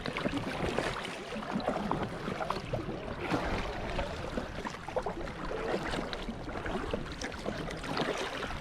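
Water sloshing and splashing around a canoe as it is paddled, with scattered small knocks and splashes.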